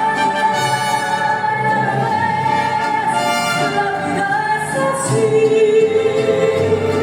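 A woman singing a ballad over orchestral accompaniment, holding one long note near the end.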